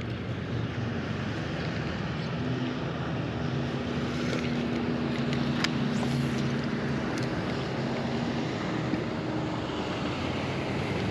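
A jet ski's engine droning steadily on the water over wind and lapping water, its hum strongest in the middle and fading after about eight seconds.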